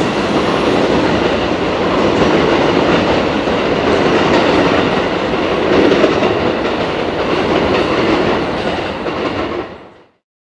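683 series electric limited express train running on the tracks while departing the station, a steady loud noise that fades out quickly near the end.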